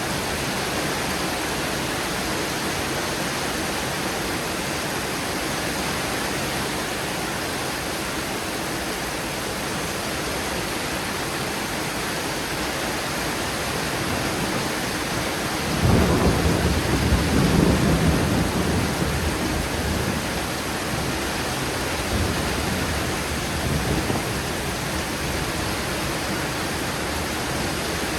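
Heavy, steady rain with a thunderclap about halfway through: a sudden loud rumble that peaks for a few seconds, then rolls on in weaker swells before fading back into the rain.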